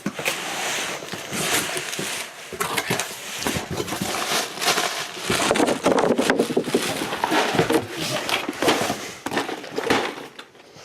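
A cardboard shipping package being torn open and its packing handled: dense rustling and crinkling with many sharp clicks, loudest in the second half.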